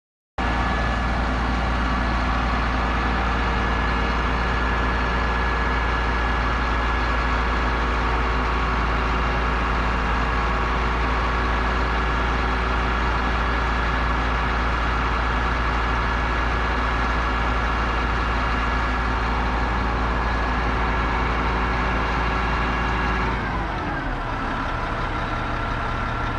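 Heavy engine running steadily at raised speed, then slowing and settling at a lower speed near the end.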